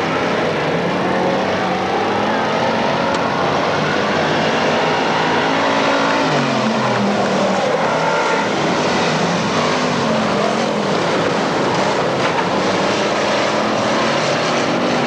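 Several dirt-track race car engines running at once, their pitch rising and falling as they rev through the turns and down the straights.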